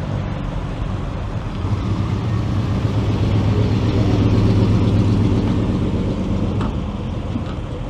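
Classic car's engine running at a low, steady speed, getting louder toward the middle and then fading away.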